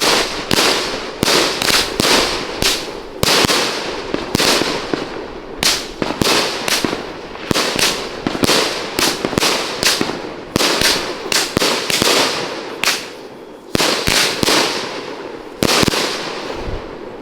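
Sky Sonic 'Airborne' salute cake firing: a rapid run of sharp, loud aerial bangs, about two a second, that stops about a second before the end.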